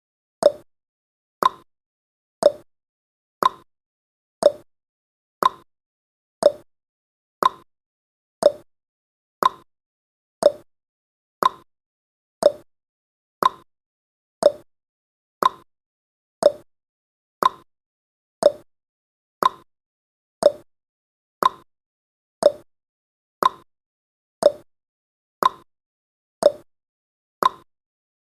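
Countdown timer's tick sound effect: a short, hollow click once every second in a perfectly even rhythm, each tick dying away quickly.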